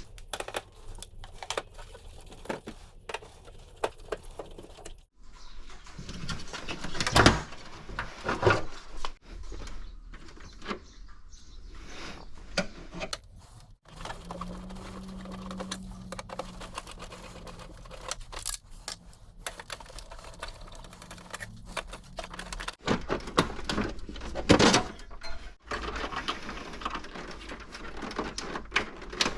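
Clicks, knocks and clatter of plastic parts of a Samsung Q9000 stand air conditioner being handled and taken apart, with a few louder knocks. A low steady hum runs for several seconds in the middle.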